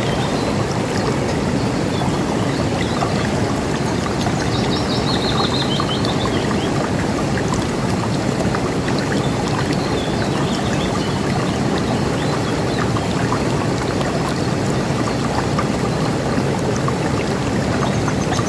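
River water rushing steadily. A bird gives a short trilled call about five seconds in, with a few faint chirps over the water.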